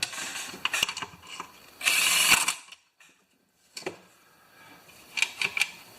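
Clicking and rattling of the plastic and metal parts of a Honda HR214 lawn mower's recoil starter as it is handled and turned, with a dense rattle about two seconds in and a few sharp clicks near the end. About halfway through it drops to near silence for a second.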